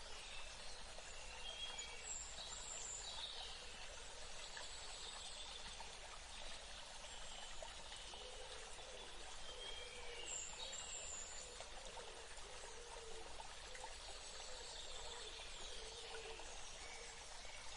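Nature ambience: a steady hiss of running water, with short high bird chirps every few seconds.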